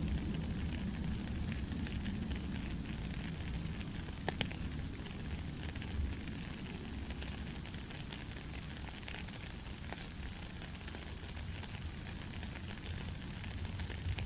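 Steady white noise for lulling a baby to sleep: an even rushing hiss, heaviest at the low end, with a few faint clicks and crackles.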